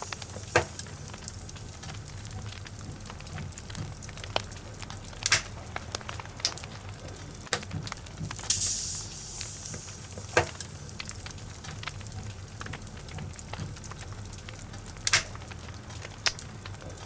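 Logs burning in a fireplace, crackling with scattered sharp pops, the loudest about every five seconds, and a brief hiss about eight and a half seconds in, over a low steady rumble.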